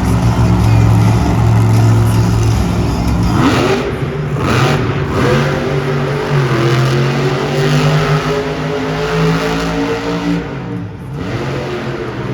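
Monster truck engine running hard and revving, with sharp rises in revs about three and a half and five seconds in and a brief drop near the end.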